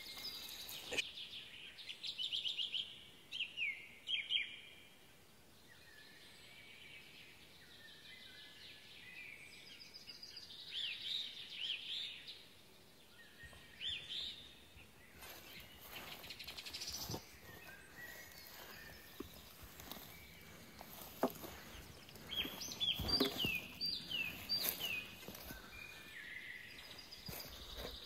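Small songbirds chirping and singing, with runs of quick notes and short down-slurred whistles coming again and again. A few short sharp knocks or rustles come in the second half.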